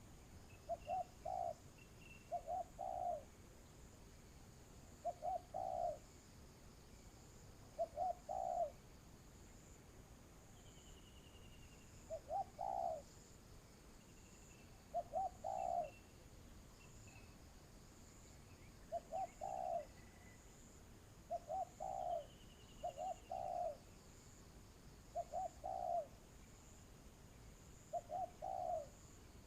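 Spotted dove cooing: short two- or three-note coo phrases repeated about every two to three seconds, with faint chirps of other birds and a steady high insect buzz behind.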